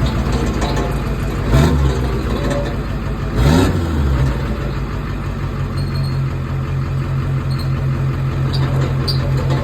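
2001 LB7 Duramax 6.6-litre V8 turbo-diesel idling, blipped twice in quick revs about two seconds apart early on, then settling back to a steady idle.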